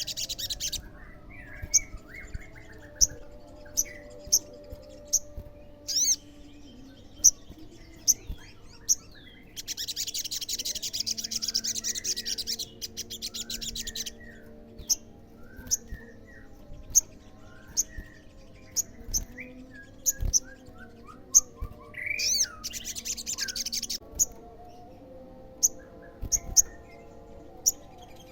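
Olive-backed sunbird (sogon) singing: sharp, high, repeated chips, broken by several long, dense, buzzy rattling trills of a few seconds each.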